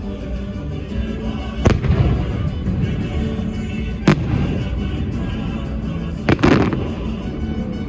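Firework shells bursting over show music: four sharp bangs, one just under two seconds in, one about four seconds in, and two close together near the end.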